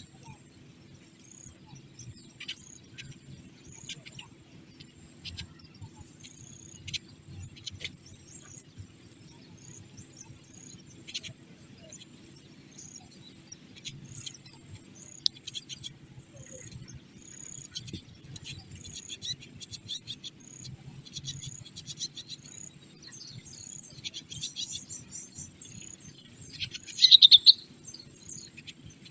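Small birds chirping in short scattered calls over a steady high-pitched insect drone, with a louder run of chirps lasting about a second near the end.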